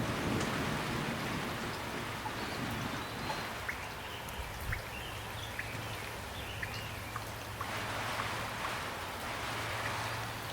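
Steady rain falling, with individual drops landing close by as sharp ticks over the even hiss of the rain.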